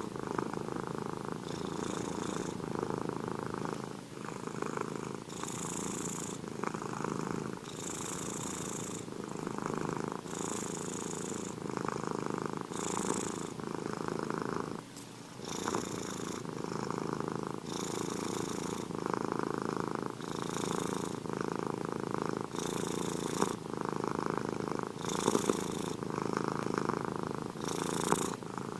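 Domestic cat purring steadily close up, swelling and easing with each in-breath and out-breath. There is a short lull about fifteen seconds in.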